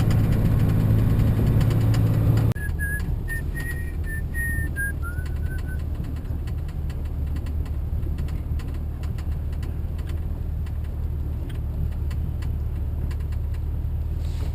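Diesel engine of heavy machinery running steadily, its hum shifting lower abruptly about two and a half seconds in. A short series of whistled notes at stepping pitches follows, from about three to six seconds in.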